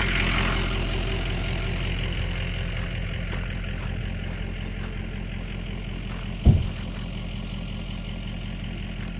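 Car engine idling steadily, with a single heavy thump about six and a half seconds in.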